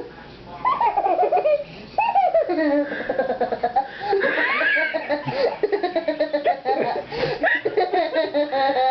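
People laughing in repeated bursts, with some talk mixed in.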